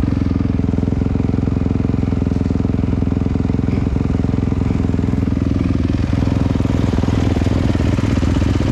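Dirt bike engine running close to the microphone, holding a steady pitch while riding.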